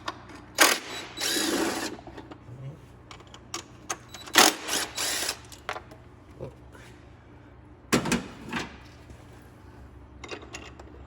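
Small handheld power tool running in several short spurts, the longest about a second, with clinks of metal parts in between: bolts being spun out of the front of the engine.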